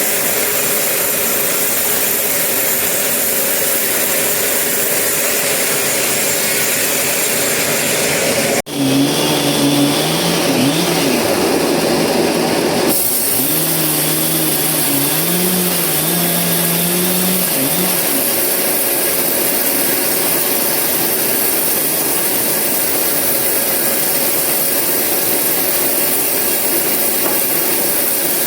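Sawmill saw running and cutting eucalyptus logs, a loud, dense machine noise. A sudden break about nine seconds in, after which a wavering, pitched hum rides under the noise for about nine seconds.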